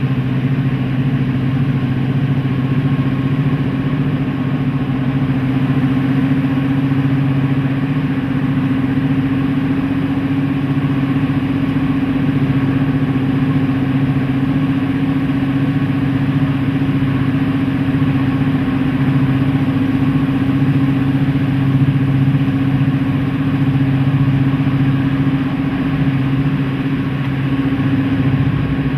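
Class 55 Deltic locomotive's twin Napier Deltic two-stroke diesel engines running at a steady pitch, a loud continuous drone with no change in speed.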